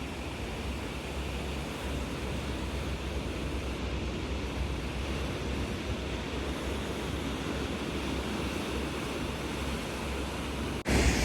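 Steady rushing wind with a deep rumble of wind buffeting the microphone. It cuts off abruptly near the end.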